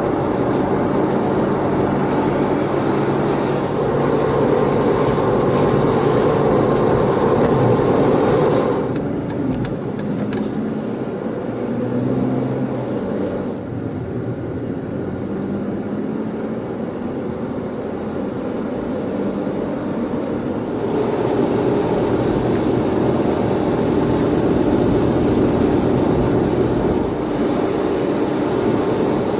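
Jeep Wrangler JK driving, its engine and tyre noise on a wet road running steadily. The noise drops for a stretch in the middle, with a few short clicks about nine seconds in, then builds again about twenty seconds in.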